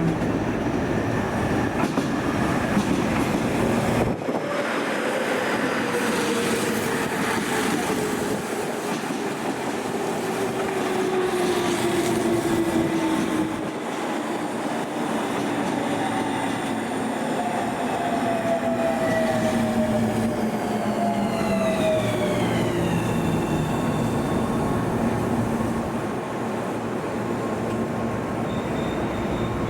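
Electric commuter train slowing down: its motor whine falls steadily in pitch as it brakes, over the steady running noise of the cars.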